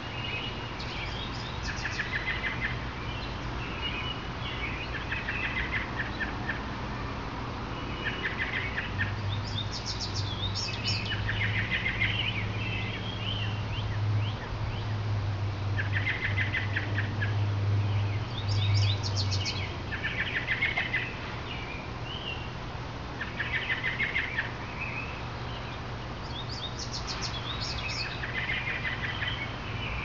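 Songbirds singing: short phrases with fast trills, repeated every few seconds. A low steady hum comes in about nine seconds in and stops about ten seconds later.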